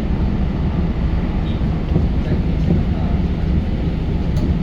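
Steady low rumble of a moving commuter train heard from inside the car: wheels on the rails and running gear at speed.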